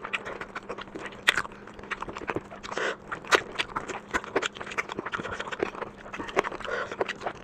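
Close-miked eating: chewing and biting of food, with frequent irregular sharp mouth clicks and smacks.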